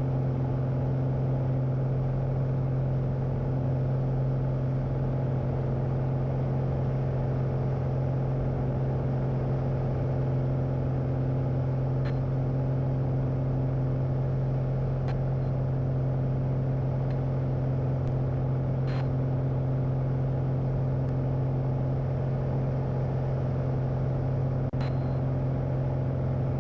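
Light aircraft's engine and propeller droning steadily at climb power during the climb-out after takeoff.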